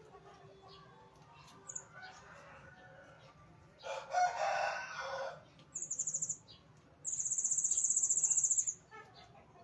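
A rooster crows once, about four seconds in. Then come two very high, rapid trills from a small bird, the second one longer. Faint bird chirps run throughout.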